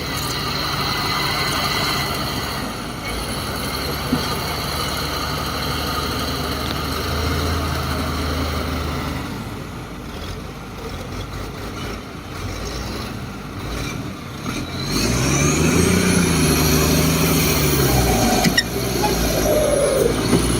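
Heavy diesel engine of earth-moving machinery running steadily, then revving up and back down about fifteen seconds in, a high whine rising and falling with it.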